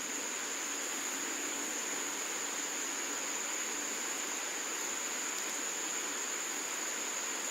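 Steady high-pitched insect drone over a constant even hiss.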